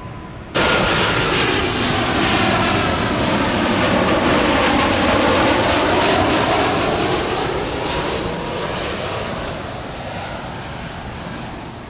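Jet airliner passing low overhead, a loud roar that starts suddenly about half a second in, swells to a peak with a sweeping, phasing quality, then slowly fades.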